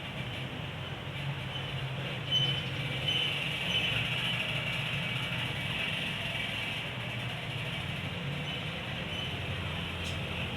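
Steady low hum and hiss, with a few short, faint high chirps from a small songbird, in two brief groups.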